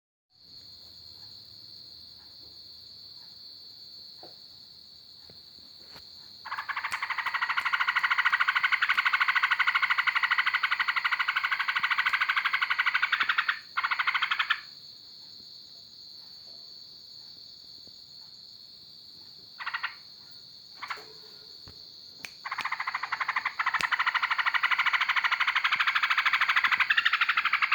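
A small cage songbird singing long, fast rattling trills. One lasts about seven seconds, a short one follows, and another starts about two-thirds of the way in. A steady high-pitched whine runs underneath.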